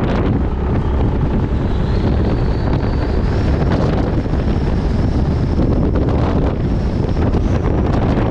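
Heavy wind buffeting on the microphone while riding a Yamaha Majesty 400 scooter, with its single-cylinder engine running underneath. A faint high whine rises slowly from about two seconds in.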